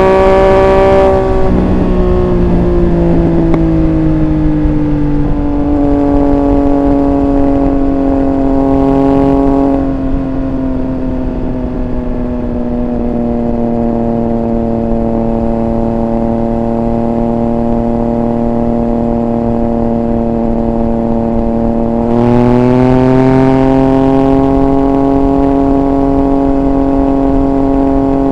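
Triumph Speed Triple 1200 RR's three-cylinder engine heard onboard. The revs fall away over the first few seconds, pick up briefly and drop back about ten seconds in, then run at a steady low cruise. Near the end the throttle opens, and the revs climb and hold higher.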